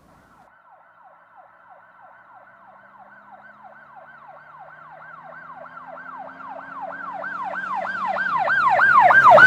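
Emergency vehicle siren wailing in a fast repeating rise and fall, about three cycles a second, growing steadily louder as it approaches.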